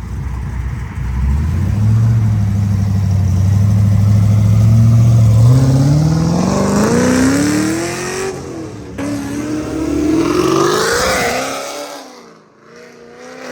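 A car accelerating hard as it drives off: the engine note climbs steadily, drops at a gear change a little past halfway, climbs again, then fades away near the end.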